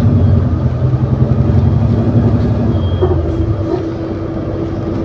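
Diesel engine of an ADL Enviro400 City double-decker bus with a Voith automatic gearbox, heard from on board, pulling under load. About three and a half seconds in the engine note eases off, and a steady higher-pitched tone carries on.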